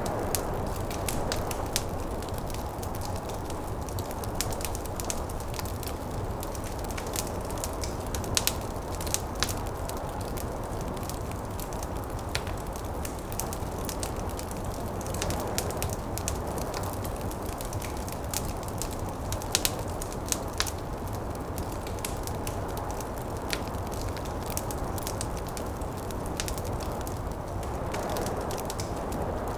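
Wood fire crackling, with frequent sharp pops at irregular moments, over a steady low rush of snowstorm wind.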